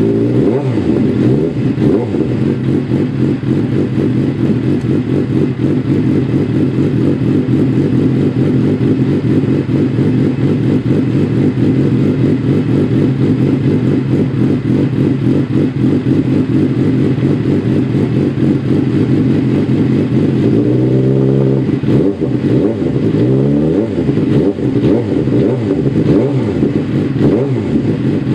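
2009 Suzuki GSX-R 750's inline-four running through an Arrow full exhaust system, idling steadily. About twenty seconds in it is revved, then blipped several more times toward the end.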